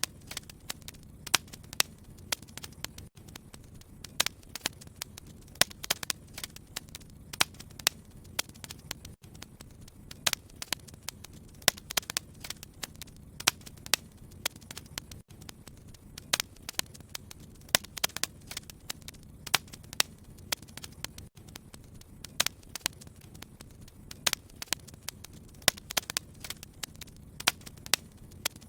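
Wood fire crackling: frequent sharp pops and snaps, several a second, over a steady low rumble of the flames.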